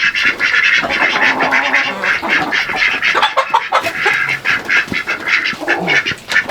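A flock of farm poultry calling continuously, many birds at once, as they are herded up a board ramp.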